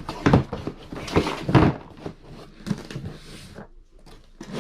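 A few sharp knocks and scuffs of boxes and objects being moved and handled on a table. The knocks are loudest in the first two seconds and fainter scuffs follow.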